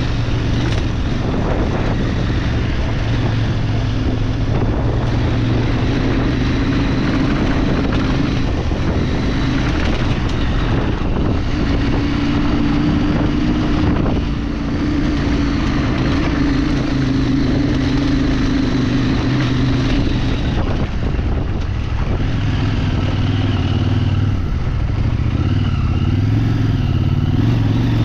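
A vehicle engine running under way at a fairly steady speed over wind and rough-ground noise, its pitch wavering with the throttle and rising near the end as it speeds up.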